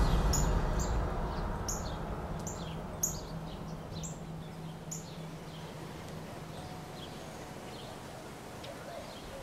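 Small birds chirping: a run of short, high, downward-sliding notes, then softer calls near the end. A low background sound fades out over the first few seconds.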